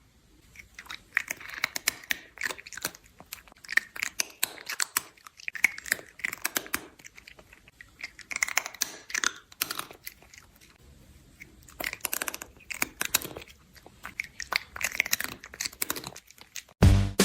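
An animal chewing something crunchy: irregular runs of short, sharp crunches with brief pauses between them. Loud music with a beat cuts in right at the end.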